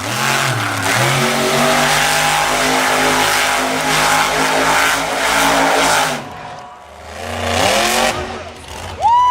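Monster truck engine revving hard, its pitch rising and falling. It drops off about six and a half seconds in, then revs up again, and a short high tone rises and falls just before the end.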